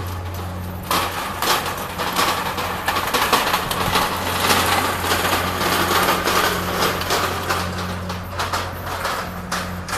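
Steady low engine hum of a moored ship, with dense irregular crackling noise over it. The hum fades for a few seconds about a second in, then returns.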